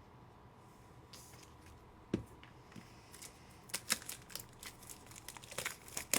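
Trading card packs and wrappers being handled: a single knock about two seconds in, then a busy run of crinkling and clicking that builds over the last few seconds.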